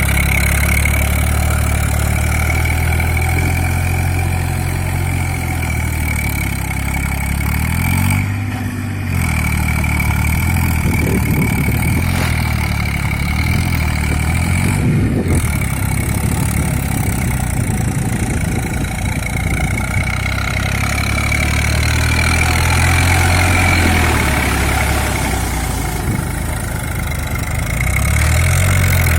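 Eicher 380 tractor's diesel engine running steadily under load while puddling a paddy field, its pitch dipping and rising a few times as the load or throttle changes.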